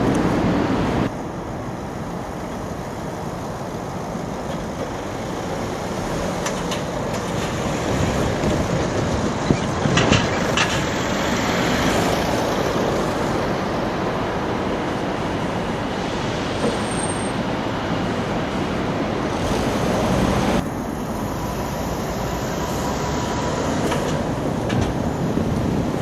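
A train running past, a steady rumble of wheels on rail that builds over the first ten seconds, with a few sharp clicks about ten seconds in.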